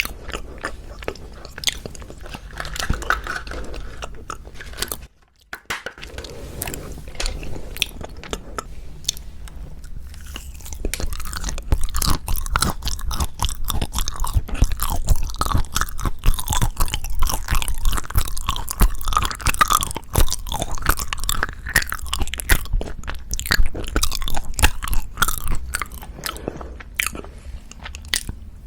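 Close-miked ASMR eating sounds of wagashi: biting and chewing with small crunches and wet mouth clicks. There is a brief break about five seconds in, and the sound gets louder and busier from about twelve seconds on.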